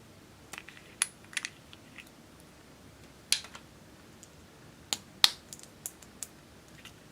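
Slime being kneaded and pressed by hand, giving irregular sharp sticky clicks and pops as air pockets burst.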